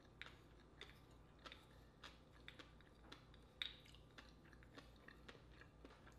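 Quiet eating sounds: soft, irregular clicks of chewing, about two a second, with a louder click about midway, while a wooden spoon scrapes a large baked oyster loose from its shell.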